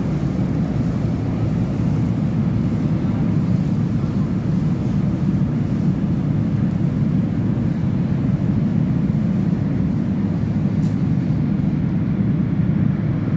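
Steady low rumble of a Bombardier Class 345 electric multiple unit on the move, heard from inside the passenger carriage.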